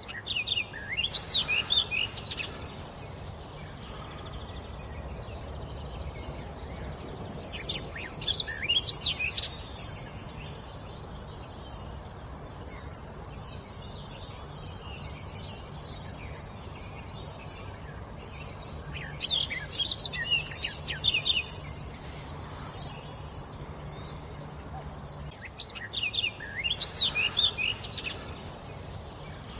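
A songbird singing in four separate phrases of quick, high chirping notes, each lasting two to three seconds, with long pauses between them, over a faint steady low hum.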